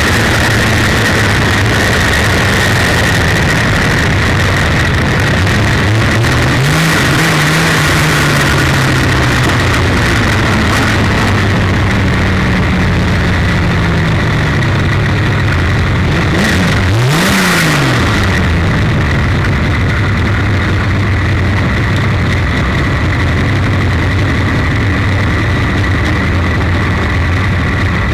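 1932 Ford Super Modified race car's 300 cubic-inch straight-six running hard under racing load, heard from on board. The pitch swings up and down twice, about a quarter of the way in and again about two-thirds of the way in.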